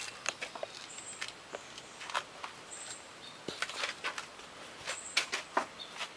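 Scattered light clicks and taps from handling, with a few faint, brief, high bird chirps in the background.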